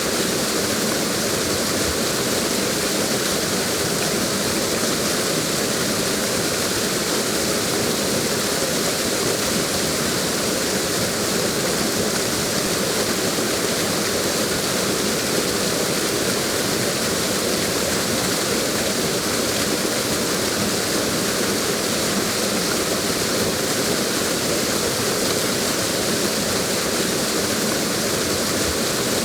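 Waterfall rushing steadily, a constant full hiss of falling water with no breaks or changes.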